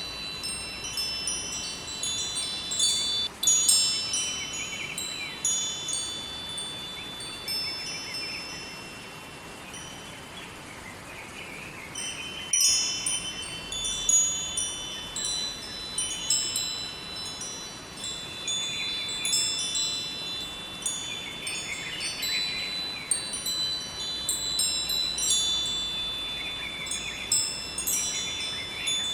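Wind chimes tinkling continuously: many high ringing tones struck and overlapping in an irregular stream, over a faint steady rush of river water.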